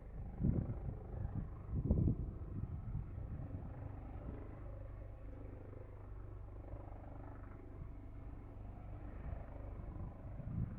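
Leonardo AW139 twin-turbine helicopter running at a distance, a steady low rotor and turbine hum. Irregular low gusts of wind buffet the microphone in the first two seconds.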